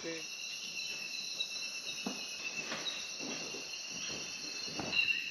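Rainforest chorus of crickets and other insects, trilling steadily at several high pitches at once, with a few faint taps.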